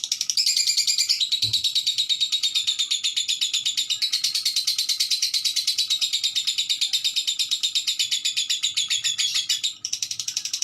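A lovebird chattering in one long unbroken run of rapid high chirps, more than ten a second, which breaks off briefly near the end before going on. There is a soft knock about a second and a half in.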